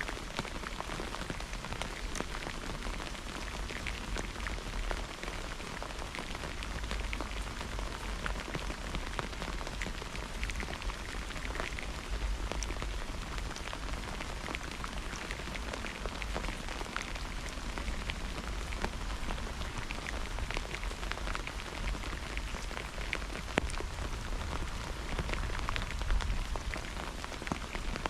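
Steady rain falling on a hard surface during a thunderstorm, a constant hiss peppered with many separate drop ticks. Two slightly louder drop hits come near the end.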